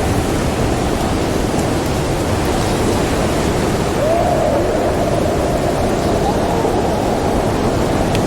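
Snowstorm wind blowing in a steady low rush, with a howling gust whose pitch swoops up about four seconds in and wavers for a couple of seconds before fading. A few faint crackles of a wood fire sit beneath it.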